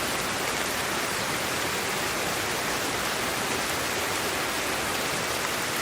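Steady sleep-aid white noise: an even, unchanging hiss.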